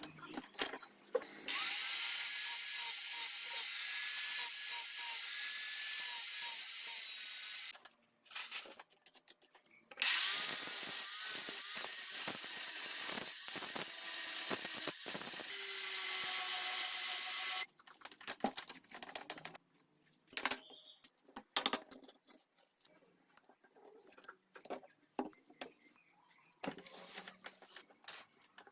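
A small handheld electric power tool runs in two long spells of about six and seven seconds, a harsh hiss over a thin motor whine. Scattered light clicks and knocks follow in the second half.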